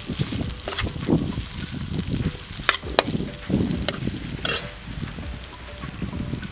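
Sliced beef sausage and onions sizzling in a frying pan as they are stirred, with the utensil scraping and giving a few sharp clicks against the pan.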